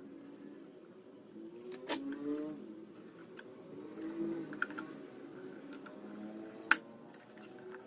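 Small sharp clicks and taps of hand tools on an electronics workbench, two louder ones about two seconds in and near the end, over a faint wavering background sound.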